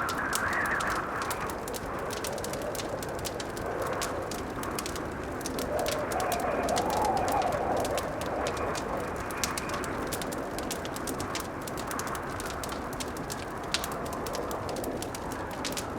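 Blizzard wind blowing in gusts that swell and fade, mixed with a wood fire crackling in many small pops.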